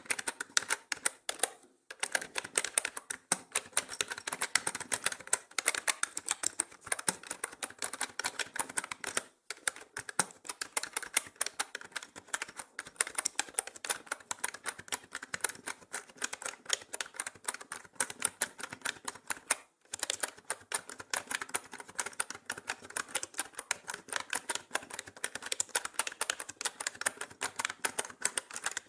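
Mechanical computer keyboard being typed on fast and continuously: a dense stream of key clicks, with three short pauses.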